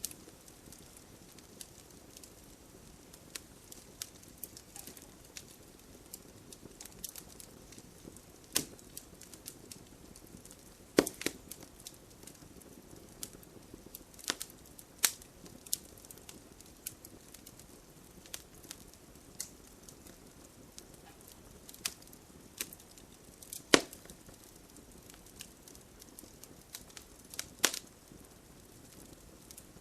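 Campfire burning with a soft steady hiss and frequent sharp crackles and pops of burning wood, a few louder pops standing out among the small ones.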